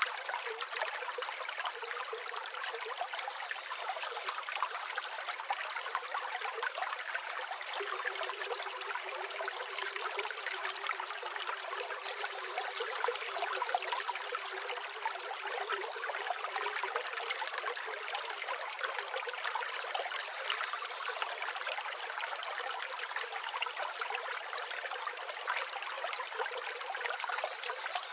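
A river or stream flowing over stones, a steady babbling and trickling rush of water with no low rumble.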